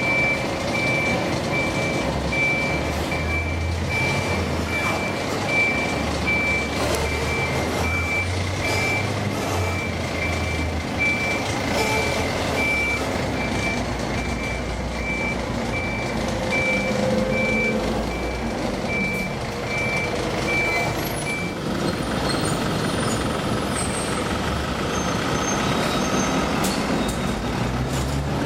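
Garbage truck's reversing alarm sounding a regular series of high beeps over the running truck engine. The beeping stops about three quarters of the way through while the engine keeps running.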